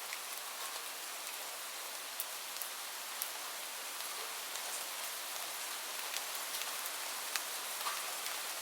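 Steady rain, an even hiss with scattered single drops ticking irregularly through it.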